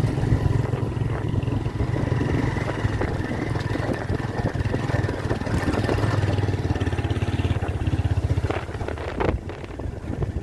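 Motorcycle engine running steadily with a fast, even firing rumble; it drops off briefly about nine seconds in.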